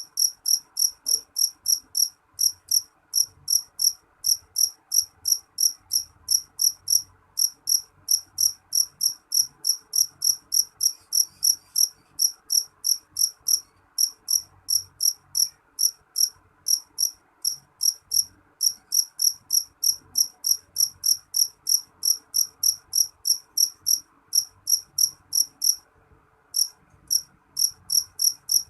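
A cricket chirping in a steady, even rhythm, about three short high chirps a second, with one brief break near the end.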